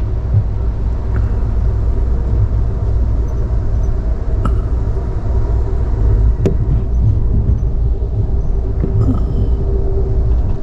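Car driving, with a steady low road and engine rumble and a faint drone; a couple of small clicks come about four and a half and six and a half seconds in.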